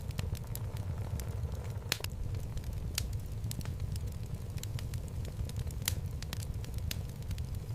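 Wood fire burning in a home fireplace: a steady low rumble of flames with irregular crackles and pops from the logs, a few of them sharper than the rest.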